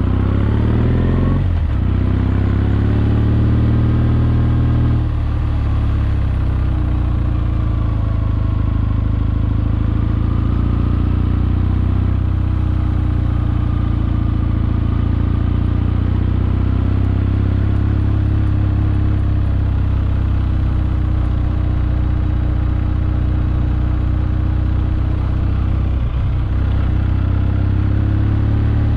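Kawasaki W650's air-cooled parallel-twin engine running steadily on the move. The revs dip sharply and pick up again about a second and a half in, shift again around five seconds, and dip briefly once more near the end.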